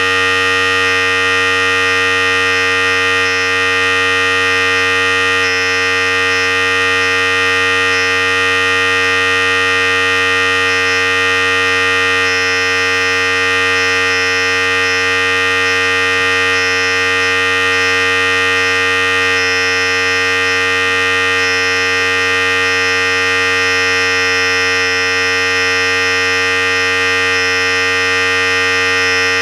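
Philips Series 5000 electric hair clipper running continuously: a steady, unchanging buzz with many even overtones.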